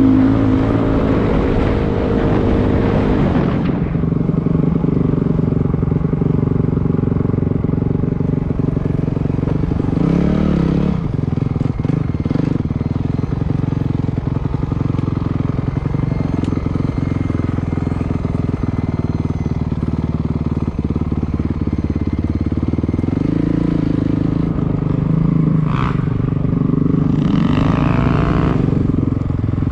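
Dirt bike engine running while being ridden, its pitch rising and falling as the throttle opens and closes, louder for the first few seconds and with revving again around ten seconds in and near the end.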